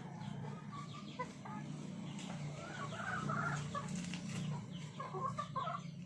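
Chickens clucking in short, scattered calls, busiest about halfway through, over a steady low hum.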